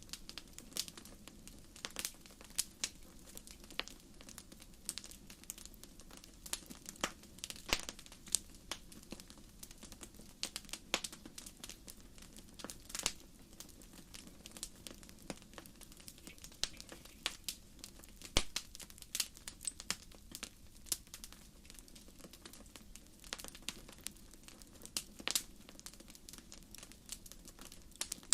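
Wood campfire crackling: the burning firewood gives off frequent, irregular sharp pops and snaps, some louder than others, over a soft steady background.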